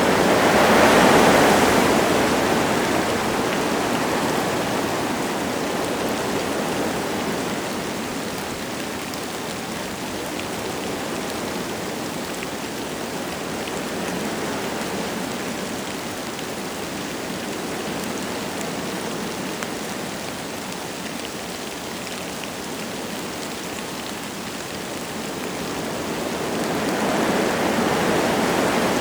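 Wind gusting through forest trees with light rain falling. A strong gust about a second in eases to a lower, steady rush through the middle, then builds again near the end.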